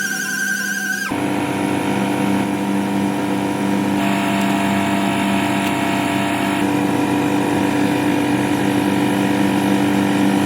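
A steady motor or engine hum with even, unchanging pitch, replacing music about a second in; a hiss joins it for a few seconds in the middle.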